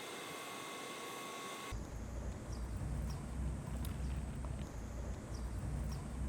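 A steady hiss with a faint electrical tone, which cuts off abruptly under two seconds in to outdoor ambience: an uneven low wind rumble with a few faint high chirps.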